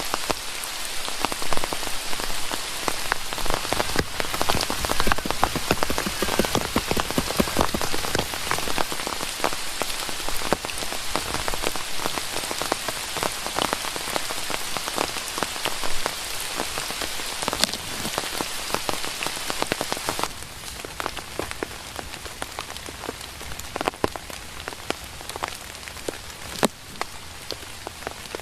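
Steady rain falling, with many separate drops striking close surfaces; it turns quieter about two-thirds of the way through.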